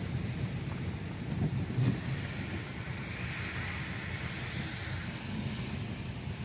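Thunderstorm wind and rain noise with a steady low rumble, the hiss swelling in the middle as a gust comes through; a brief sharp knock about two seconds in.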